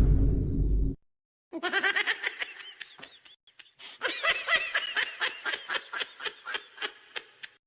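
A loud, distorted burst with heavy bass cuts off about a second in. It is followed by a person laughing in quick repeated bursts, about four a second, which runs on to the end.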